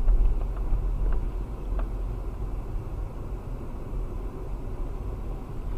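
Car driving along, a steady low rumble of engine and road noise, with a few faint ticks in the first couple of seconds.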